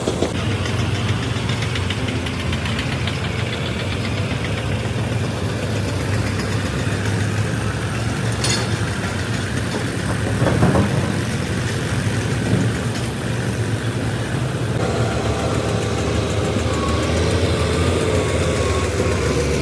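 Tractor engine idling steadily with a low, even rumble. There is a brief sharp click about eight seconds in and a short louder knock a couple of seconds later.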